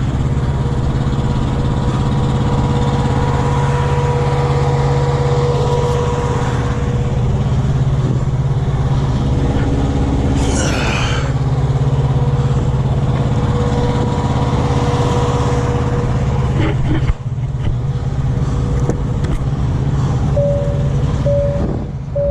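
Heavy truck diesel engine running steadily with a constant low hum. About ten seconds in, a short high sweep passes over it. Near the end, an evenly pulsed beeping tone starts.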